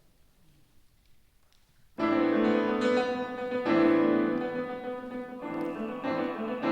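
Near silence for about two seconds, then a piano begins playing with a loud opening chord and carries on with sustained chords and melody.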